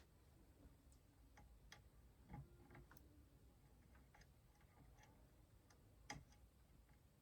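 Near silence broken by faint, scattered small clicks and taps of PC parts being handled during case assembly, the clearest about two and a half seconds in and again about six seconds in.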